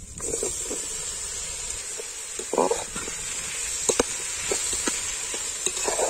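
Sliced onions, green chillies and tomatoes frying in an aluminium pot with a steady sizzle, while a metal spatula stirring them scrapes and knocks against the pot several times.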